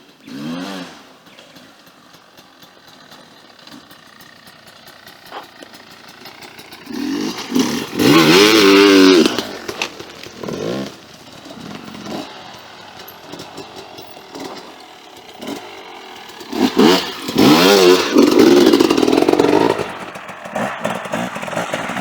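Dirt bike engine revving in bursts: a short rev at the start, a loud rise and fall of revs about eight to ten seconds in, and another long loud burst from about seventeen to twenty seconds, running much quieter in between.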